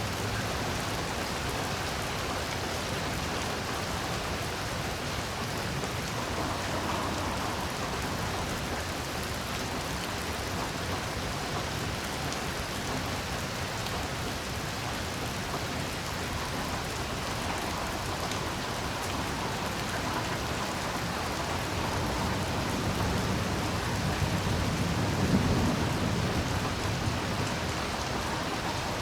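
Heavy rain falling steadily, with a low rumble of thunder swelling and fading about three-quarters of the way through.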